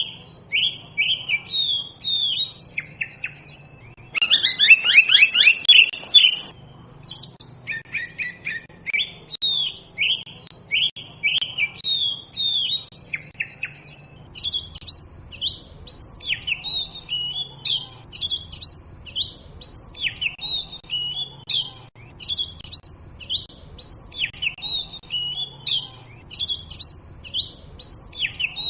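Oriental magpie robin singing: a continuous run of varied, whistled phrases, with a loud burst of rapid, harsh notes about four to six seconds in.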